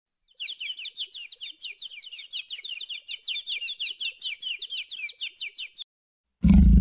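A bird trill: a fast, even run of short high chirps, each sliding downward, about seven or eight a second, for some five seconds. It starts and stops abruptly.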